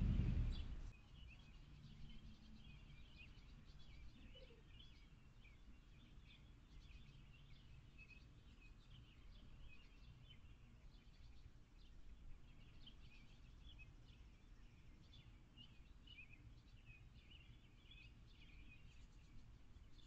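Faint chirping of small birds: many short, high notes scattered all through. In the first second there is a louder rustling as the bird in the box settles onto the straw nest.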